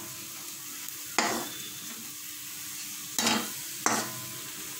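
Onion and spice masala with gram flour sizzling in oil in a kadai while being stirred with a steel slotted spoon. The gram flour is roasting until it smells fragrant. A steady sizzle runs throughout, and the spoon strikes the pan three times: once about a second in and twice in quick succession near the end.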